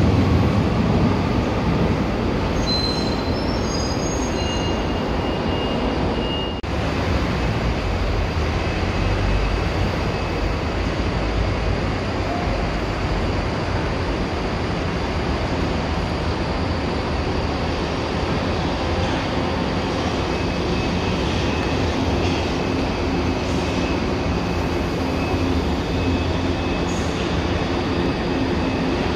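Electric passenger trains running on the station tracks: a steady rumble of wheels on rail, loudest at the start. A few short high-pitched wheel squeals come about three to five seconds in. From about twenty seconds on there is a faint steady whine as a São Paulo Metrô Fleet H train rolls by.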